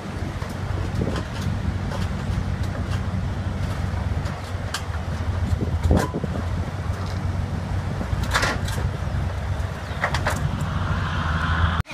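A vehicle engine idling steadily with a low hum, with scattered sharp clicks and knocks, the strongest about six and eight and a half seconds in.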